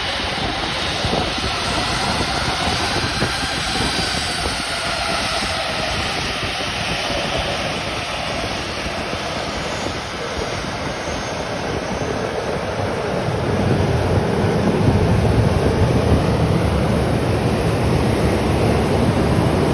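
Jet engines of a Boeing 737-800 airliner (CFM56-7B turbofans): a steady rushing noise with a faint gliding whine in the first half, and a deeper rumble that swells about two-thirds of the way in and holds.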